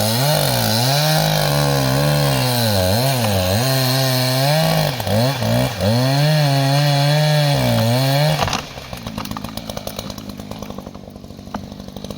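Two-stroke chainsaw cutting into a downed log, its engine pitch repeatedly dipping and recovering as the chain loads up in the wood. About eight and a half seconds in it drops to a quieter, evenly pulsing idle.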